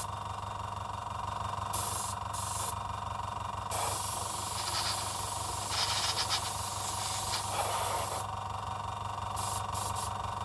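Small airbrush compressor running with a steady hum while air hisses out of the fitted airbrush gun: brief bursts, then one longer blast of about four seconds in the middle. Compressed air blows through the nozzle as the compressor builds its 2-bar working pressure.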